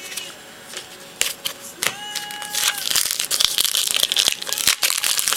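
Foil wrapper of a Bowman baseball card pack crinkling as it is handled and opened, dense and crackly through the second half. A brief steady tone sounds about two seconds in.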